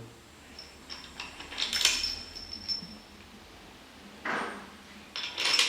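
Light metallic clinks of steel tools and engine parts being handled, in about three short clusters; the first, about two seconds in, rings on briefly with a high tone.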